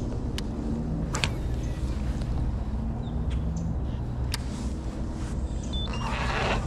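A boat motor running steadily with a low hum, with a few light clicks and a short hiss near the end.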